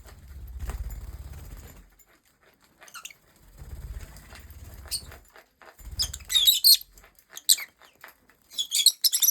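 Pet lovebirds squabbling: bursts of wing flapping, then sharp, high chirps and squawks in quick clusters through the second half.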